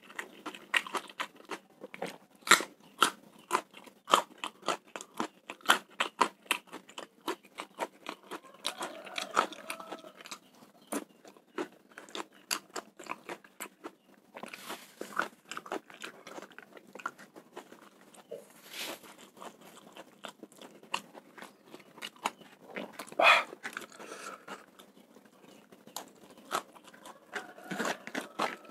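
Close-miked chewing of mouthfuls of spicy fried rice with bird's eye chillies: crunching, biting and wet mouth clicks in a rapid, irregular run, with a few louder bursts.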